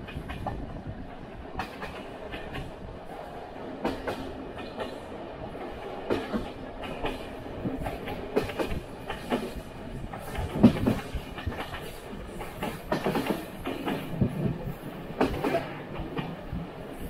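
Passenger train running, heard from aboard a coach: a steady rumble of wheels on the rails with irregular clacks and knocks, the loudest about ten and a half seconds in.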